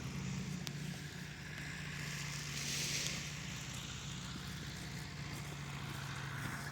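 An engine running steadily at a constant low speed, with a brief hiss about three seconds in.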